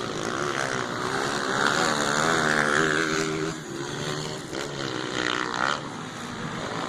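Motocross bike engines running and revving, their pitch wavering up and down.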